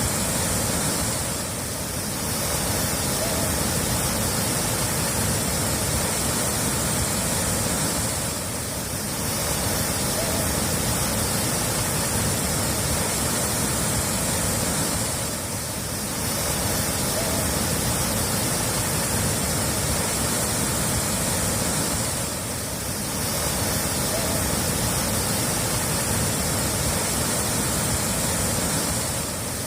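Running water: a steady, even rush of water that dips briefly in loudness about every seven seconds.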